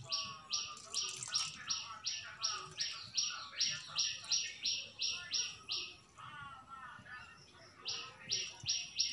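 A bird calling one sharp, high note over and over, about three times a second. It breaks off for under two seconds after about six seconds, then starts again.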